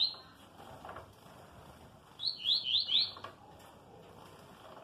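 Coleiro (double-collared seedeater) singing a short phrase of four or five quick, falling whistled notes about two seconds in. The tail of a previous phrase comes right at the start.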